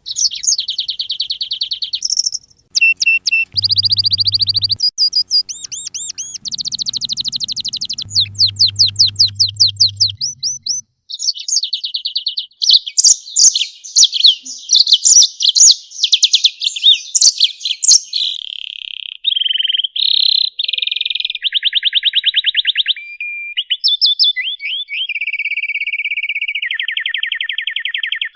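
Songbird song for masteran: a fast run of loud trills and rapid repeated chirps whose pattern changes every second or two, with a faint low hum under two short stretches in the first third.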